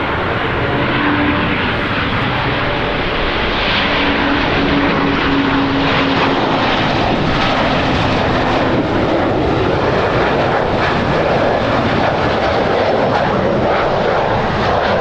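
Aircraft engines at close range, loud and steady. A low hum within the noise drops slightly in pitch and fades out about halfway through.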